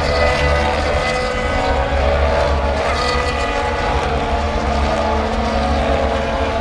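Formula 1 car engines buzzing at high revs, a steady, dense sound of several pitches sliding slightly up and down.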